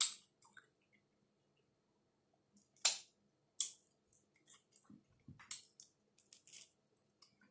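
Close-up chewing of a taco: scattered short wet mouth clicks and smacks, the sharpest about three seconds in.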